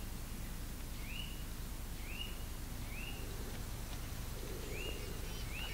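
A small bird calling: five short chirps that rise and fall in pitch, spaced about a second apart, over a steady low rumble of outdoor background noise.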